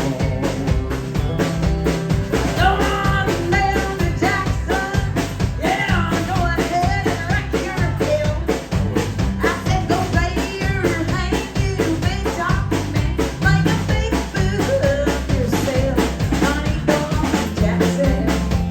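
A live country band plays an upbeat instrumental break: drum kit, a walking bass line and a lead instrument carrying the melody.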